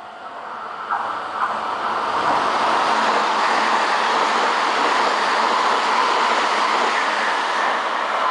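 Meitetsu Panorama Super electric express train running past at speed. Its rushing wheel and running noise builds over the first two seconds, holds steady and loud, and eases slightly near the end.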